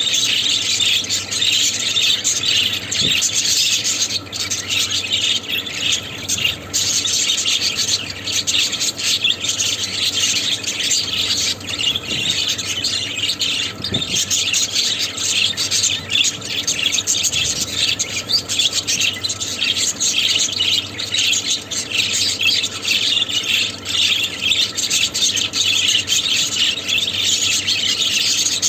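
Budgerigars chattering: a steady, dense run of quick high chirps and squawks with no pauses.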